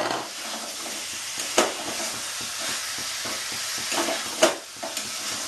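Chicken and potato pieces sizzling in a kadai as they are fried down (kasha) with spices, while a metal spatula stirs and scrapes them. Sharp knocks of the spatula on the pan come about one and a half seconds in and again near four and a half seconds.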